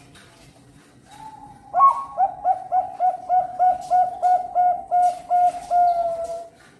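Zebra dove (perkutut bangkok) singing: a soft opening note, then a quick run of about a dozen clipped coos, roughly three a second, ending in a longer drawn-out coo.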